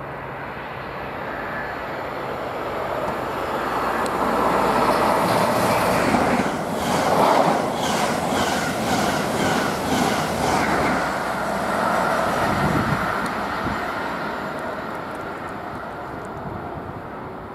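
Diesel passenger train running through the station at speed without stopping: the noise builds, peaks for several seconds with a quick run of wheel clicks over the rail joints as the carriages pass, then fades away.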